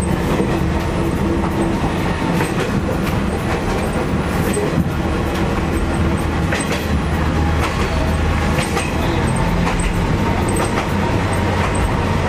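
Isumi Railway diesel railcar running along the line, heard from inside at the front of the car: a steady low engine hum with the wheels clicking over the rails now and then.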